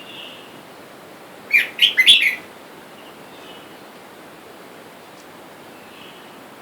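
Red-whiskered bulbul calling: a quick burst of several sharp chirping notes about one and a half seconds in, with a few faint, softer notes before and after.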